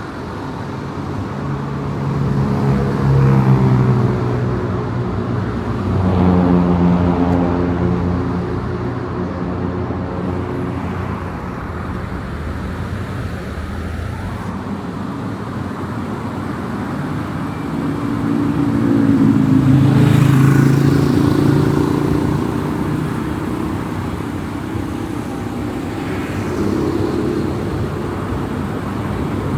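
Car driving on a highway: steady tyre and road noise with the engine note swelling and shifting in pitch several times as it accelerates, loudest about twenty seconds in.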